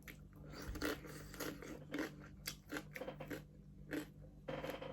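A person chewing and biting crunchy food: irregular crisp crunches and mouth clicks, two or three a second.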